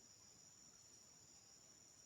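Faint, steady chorus of insects such as crickets, a continuous high-pitched trilling drone with no break.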